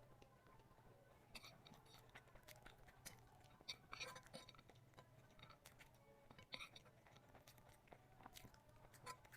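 Faint eating sounds: a scatter of short crunches and wet mouth clicks from chewing, beginning about a second in.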